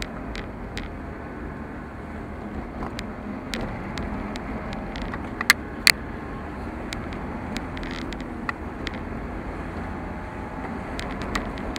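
A car driving, with steady engine and road noise and scattered small ticks. Two sharp, loud clicks come a little past halfway.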